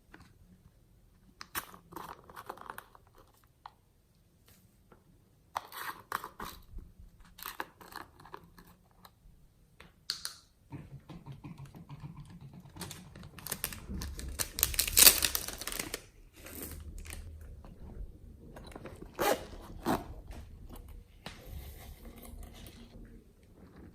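Hands squishing, stretching and mixing slime: irregular sticky crackles and pops, quiet at first and loudest about fifteen seconds in.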